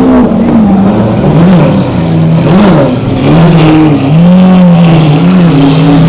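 Car engine revving as it drives off, its pitch rising and falling several times and climbing again near the end.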